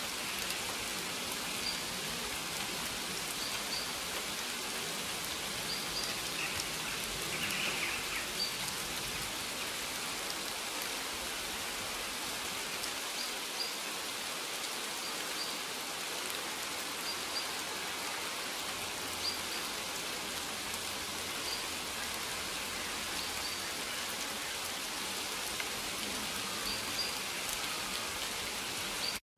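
Steady rainfall, an even hiss of many drops, with faint short high chirps now and then.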